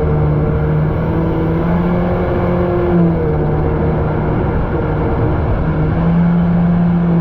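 Supercharged Yamaha SVHO four-cylinder engine of a personal watercraft running steadily, its pitch shifting a little twice.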